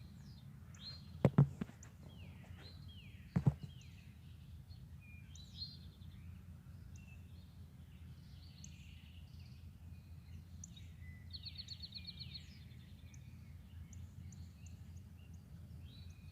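Several wild birds chirping and singing, including a rapid trill of repeated notes about eleven seconds in, over a steady low hum. Two sharp knocks, each a quick double, come a little over a second in and about three and a half seconds in, and are the loudest sounds.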